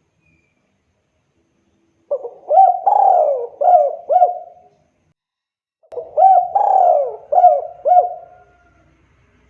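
Spotted dove (tekukur) cooing: two phrases of quick, rhythmic coos, each about two and a half seconds long, the first starting about two seconds in and the second about six seconds in.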